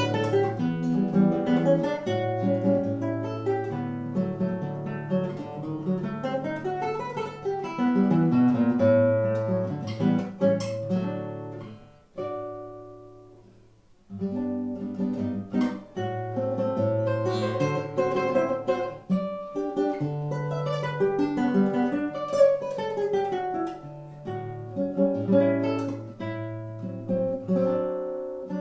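Acoustic guitar playing choro, plucked melody over bass notes. The notes die away about twelve seconds in, and the playing starts again about two seconds later.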